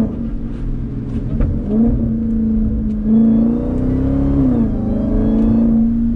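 Supercharged Hemi V8 of a roughly 1000 hp Jeep Grand Cherokee Trackhawk running under throttle, with a rising supercharger whine above the engine note. The engine pitch dips briefly about a second and a half in and drops again past the middle before it settles.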